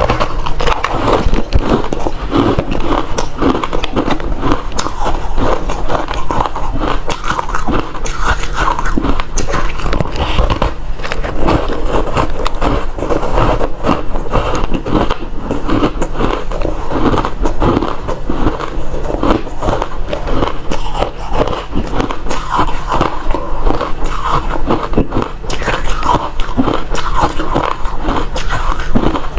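Close-miked biting and chewing of refrozen crushed ice: a loud, continuous run of fast crunches and crackles.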